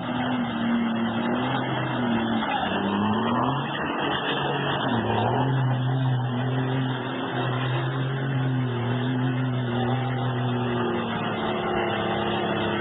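A motor vehicle's engine running, with steady hum and noise throughout and its pitch dipping and rising a few times.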